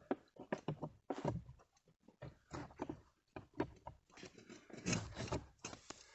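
Irregular plastic clicks, knocks and rubbing as the heater's air-mix flap is handled and fitted back into its housing.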